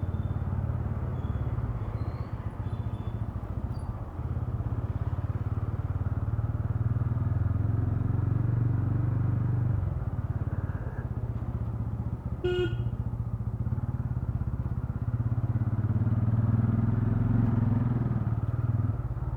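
Royal Enfield Ronin's single-cylinder engine running steadily under way, picked up by a helmet-mounted microphone. The engine eases off around ten seconds in and pulls again, with a very brief high beep about twelve seconds in.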